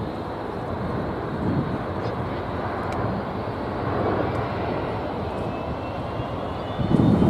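Jet airliner's engines: a steady rushing roar with a faint high whine, swelling slightly about midway. Wind gusts on the microphone come in near the end.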